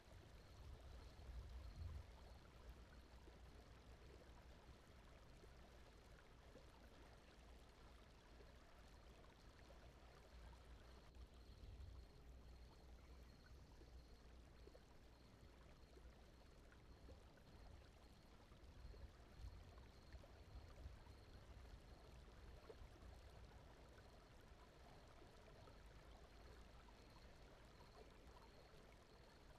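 Faint, steady ambient bed of soft flowing-water noise, a low rumble with a gentle trickle over it, like a quiet stream blended with brown noise.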